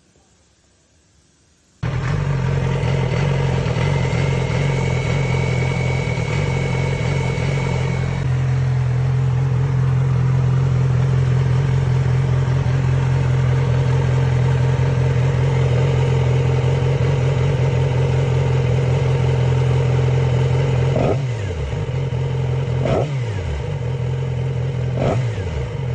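Yamaha R6's inline-four engine suddenly coming on and running at a steady fast idle, with a thin high whine over it for the first few seconds. Near the end its note dips three times in quick falling sweeps.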